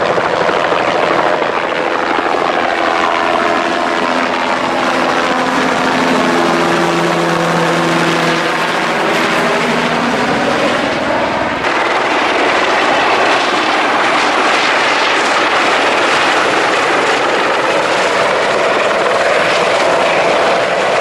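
Helicopter engine and rotor noise, loud and continuous, with tones that slowly shift in pitch; the sound changes abruptly about twelve seconds in.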